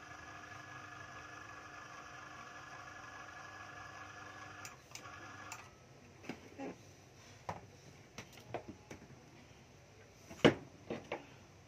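Boss cordless drill/driver motor running at a steady speed, stopping about five and a half seconds in. Then scattered clicks and knocks, with one sharp, loud click near the end.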